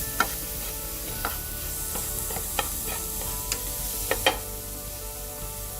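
Onion, ginger-garlic and mushroom mixture sizzling in oil in a frying pan while being stirred, with a utensil clicking against the pan about once a second; the sharpest two clicks come close together about four seconds in.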